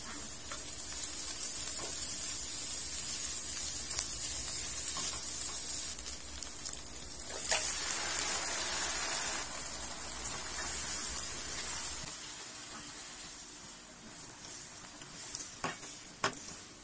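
Chopped shallots, garlic and chilies sizzling in hot oil in a wok. About halfway, marinated chicken is tipped in from a metal bowl. The sizzling then grows quieter, with a couple of sharp spatula knocks near the end.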